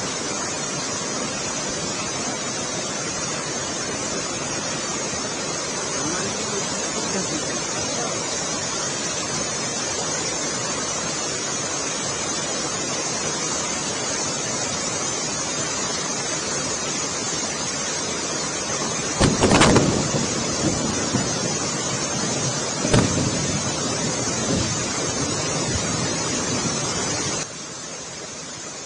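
Floodwater rushing in a steady loud hiss of water, with a louder burst about two-thirds through and a brief one a few seconds later; the sound drops suddenly near the end.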